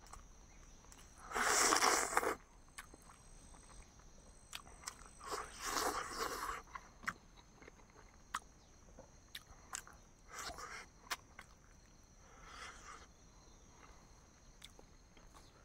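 Close-miked mukbang eating: a person biting and chewing boiled eggs with chutney, with several louder noisy bursts of mouth sounds, the loudest about a second and a half in, and small clicks in between.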